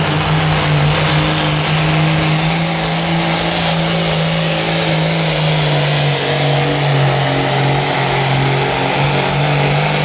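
Pulling tractor's engine at high throttle under load during a pull, loud and steady, its pitch sagging slightly about six seconds in and then recovering.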